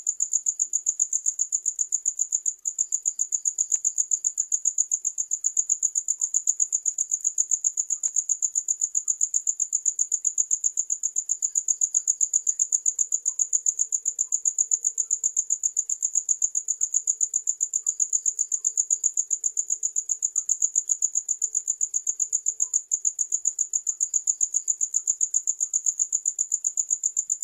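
Cricket chirping steadily: a high-pitched trill of rapid, evenly spaced chirps, several a second, that never lets up.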